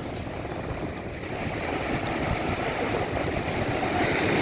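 Sea waves washing in, a steady rumbling noise that swells near the end.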